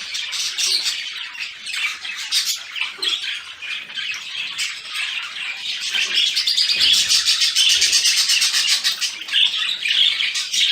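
Budgerigar chatter: rapid, continuous chirping and warbling that grows louder and denser about six seconds in.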